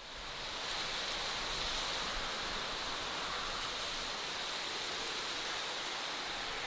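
Steady rushing outdoor nature ambience, fading in over the first half-second, then holding even. No insect buzz stands out.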